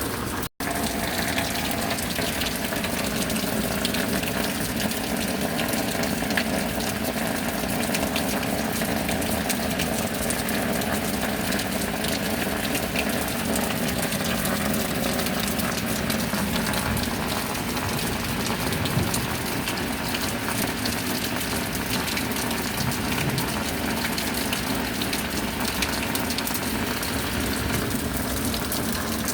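Steady rain with running, pouring water: a dense, even hiss that cuts out for an instant about half a second in.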